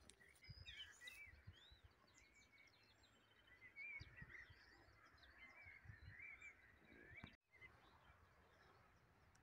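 Faint birdsong from several small birds: many short chirps and whistles, with a few soft low thuds. The sound cuts out for an instant about seven seconds in.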